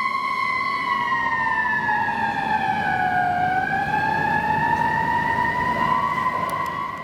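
Fire engine siren sounding a slow wail: a steady tone that slides down in pitch for a couple of seconds, then climbs back up, over the low rumble of the truck.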